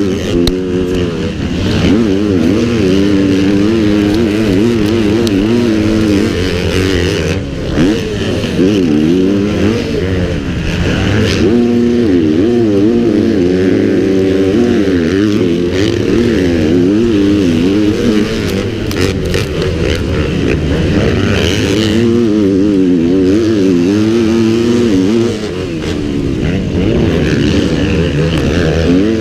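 Pit bike engine running hard at race pace, its pitch rising and falling constantly with the throttle and gear changes, with a few brief knocks.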